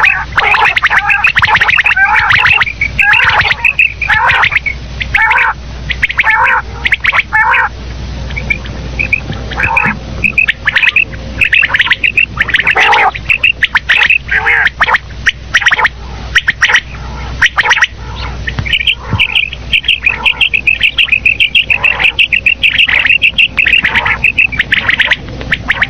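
Common quail calling loudly, runs of short sharp notes in quick succession, with a long fast even series of high notes near the end.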